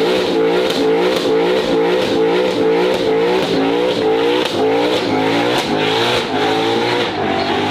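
Race car engine revving in quick repeated surges, its pitch rising and dropping about two to three times a second, over a steady hiss of tyre noise as the car slides on opposite lock.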